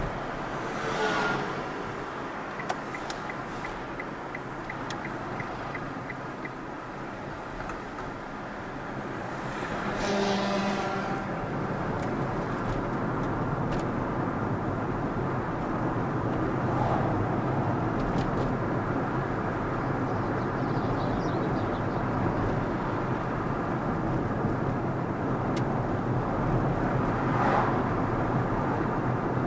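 Steady road and engine noise of a car driving on the open road. Other vehicles swish past about four times, near the start, around a third of the way in, just past halfway and near the end.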